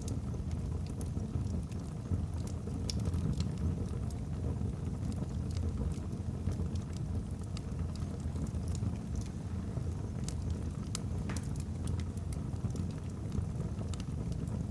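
Wood fire burning in a fireplace: a steady low rumble with many scattered sharp crackles and pops from the burning logs.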